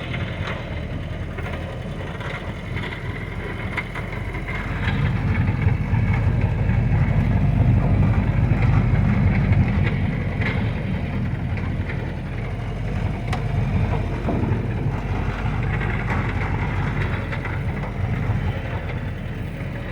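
An old Jeep's engine running as it drives slowly off-road, a steady low rumble that grows louder about five seconds in and eases back around eleven seconds, with a few light knocks.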